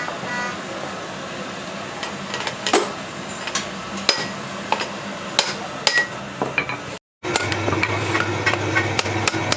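Hammer striking metal in a series of sharp, irregular blows about one to two a second, with clinking metal between them. After a brief dropout about seven seconds in, a steady low hum runs under further strikes.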